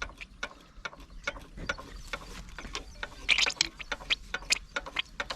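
Old diesel engine running under load driving a tubewell pump, heard as a fast, uneven clatter of sharp clicks and knocks over a steady low hum.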